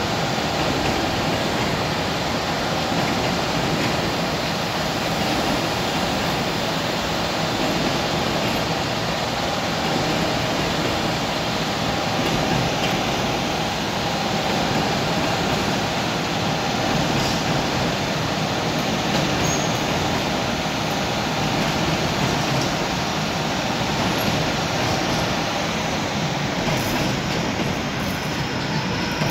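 Container freight train's wagons rolling past steadily, a continuous rumble of wheels on rails with a thin steady whine over it.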